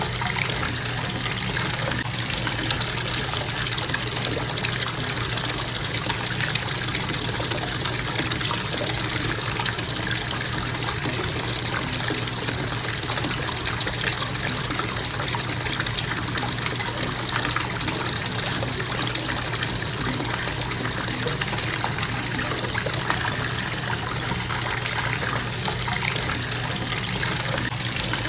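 Bathtub faucet running in a constant stream into the tub, a steady rushing flow that does not change.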